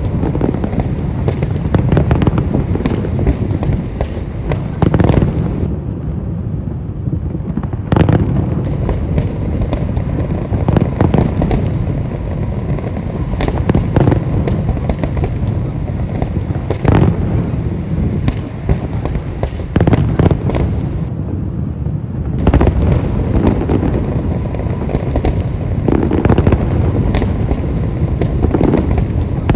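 Aerial fireworks display: a dense barrage of shells bursting one after another, sharp bangs and crackle over a continuous low rumble, with no gap between bursts.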